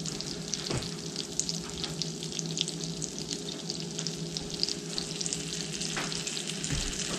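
Olive oil and melted butter sizzling and crackling with steady small pops in a hot skillet.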